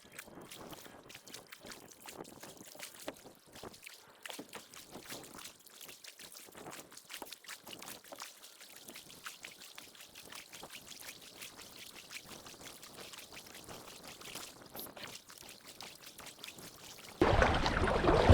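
Water trickling and dripping, with many small irregular drips and splashes. Near the end a much louder rushing noise cuts in suddenly.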